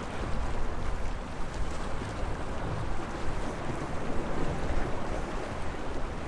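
Sea waves washing against the shore in a steady, uneven wash, with a deep rumble underneath.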